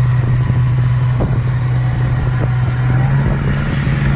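Bucket truck's engine running steadily while its hydraulic outriggers are raised, with a few light knocks.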